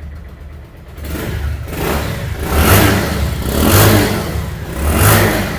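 Bajaj Pulsar 150's single-cylinder engine idling, then revved three times with throttle blips about a second apart.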